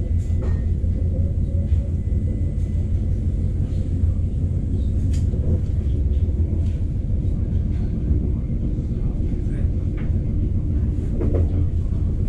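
Steady low rumble of a passenger train carriage running along the track, heard from inside the carriage, with a few faint clicks.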